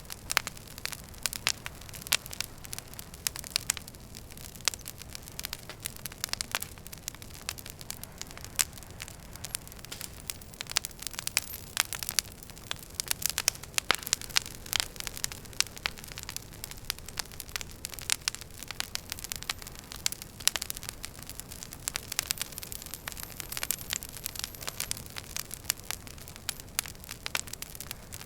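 Wood fire crackling in a fireplace: irregular sharp pops and snaps from burning logs over a steady soft hiss.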